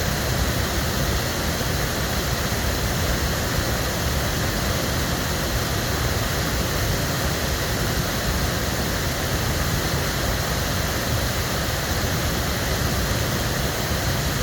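Waterfall: water pouring over the drop in a steady, unbroken rush, heaviest in the low end.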